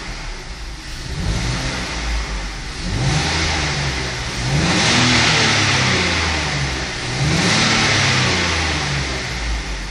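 BMW M54 2.2-litre inline-six engine revved twice from idle, its note rising and falling back each time. The car hesitates at low revs, and the owner suspects an extra air intake, a vacuum leak.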